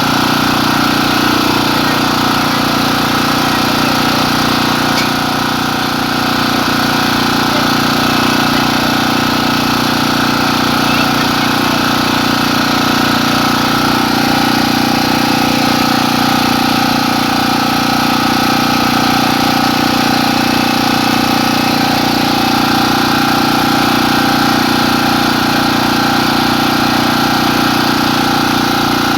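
A small engine running steadily at an even idle, with no change in speed.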